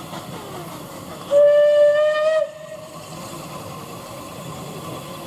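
Steam locomotive whistle blown once, a single loud note lasting about a second and rising slightly in pitch before it cuts off. Steady steam hiss and station noise lie beneath it.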